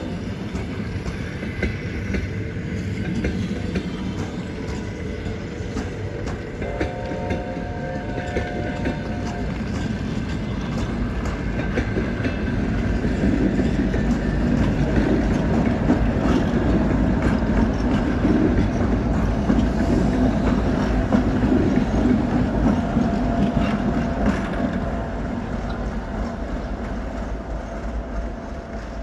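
A long passenger train rolling past with a steady rumble and clickety-clack of wheels over the rail joints. It grows loudest in the middle and fades as the last car moves away. A train horn sounds once for a couple of seconds, about seven seconds in.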